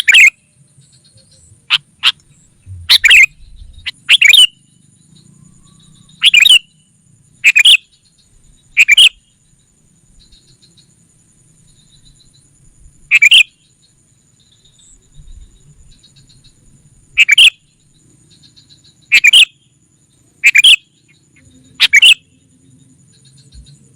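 Sooty-headed bulbul (kutilang) giving short, loud chirping calls, about a dozen at irregular intervals of one to four seconds. This is a lure call for drawing in wild bulbuls.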